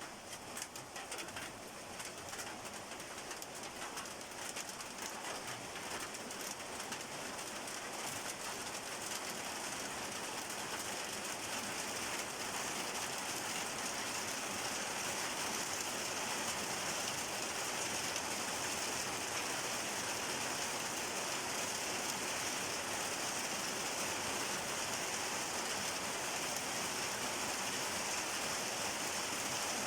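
Rain falling as an even hiss, with a few separate drop ticks in the first couple of seconds. It grows heavier over about the first fifteen seconds, then holds steady.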